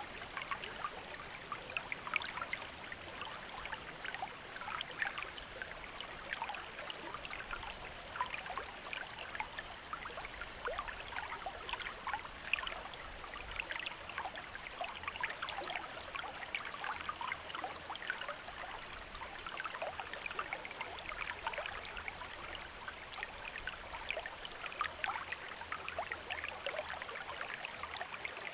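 Running water trickling and splashing: a steady, dense patter of small drips and splashes with no break.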